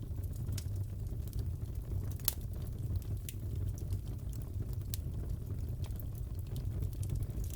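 Wood fire crackling in a fireplace: a steady low rumble of flames with irregular sharp pops and snaps, the loudest about two seconds in and again near five seconds.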